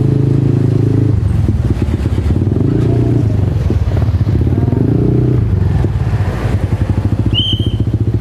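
Motorcycle engine running at low speed in stop-and-go traffic, its pitch rising and falling several times with the throttle, picked up by a helmet-mounted clip-on mic. Near the end there is a short high beep.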